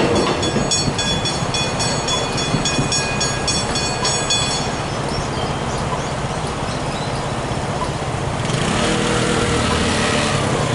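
Railway level crossing bells ringing in rapid, evenly repeated strikes over the low rumble of a passing train. The bells stop about four and a half seconds in, and a rush of road traffic noise rises near the end.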